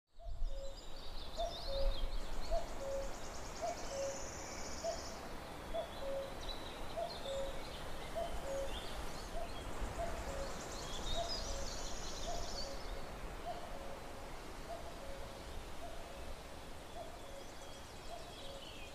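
A bird hooting in a steady series of short low notes on two alternating pitches, about two a second, with other birds chirping and trilling higher up and a low rumble underneath.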